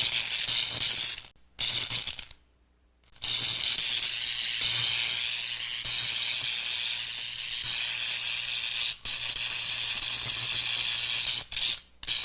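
Loud, steady high-pitched hiss, cut by a brief gap about a second in, a longer silence near three seconds, and short dips near the end.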